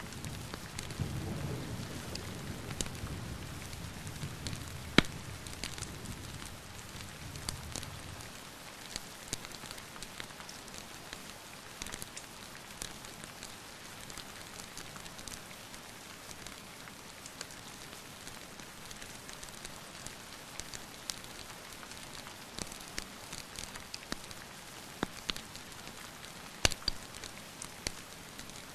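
Steady rain falling, with a low rumble of thunder dying away over the first eight seconds or so. Scattered sharp crackles run through it, the loudest about five seconds in.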